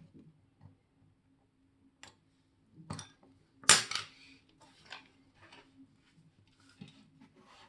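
A few sharp, separate metallic clicks and taps of small watchmaker's hand tools working on a wristwatch, the loudest about three and a half seconds in.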